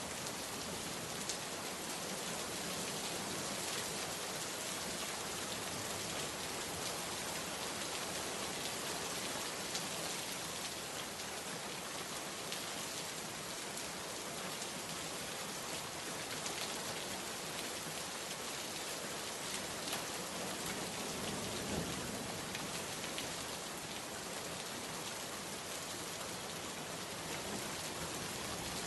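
Steady rainstorm: heavy rain falling, with the quick patter of individual drops striking a surface.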